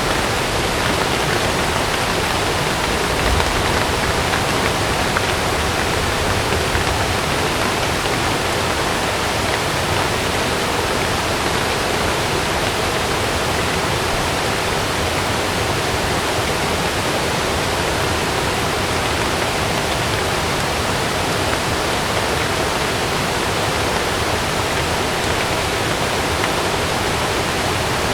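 Heavy rain with rushing water, a steady dense hiss. There is a brief low rumble about three seconds in.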